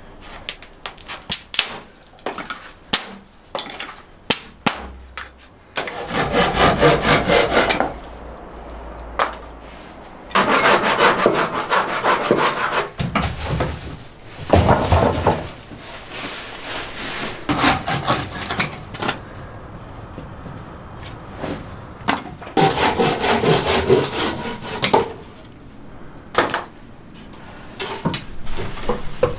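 Hand saw cutting firewood in four bouts of rapid strokes, each lasting two to three seconds, with knocks and clicks of wood being handled before and between them.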